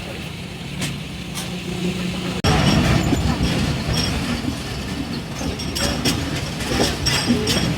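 Train sounds: a steady low hum at first. After an abrupt cut about two and a half seconds in, a louder rumble with scattered clicks and rattles.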